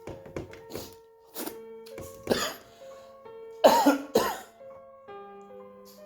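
Background music with slow held notes, over which a person coughs twice, loudest about three and a half seconds in, after a few shorter throat or mouth noises.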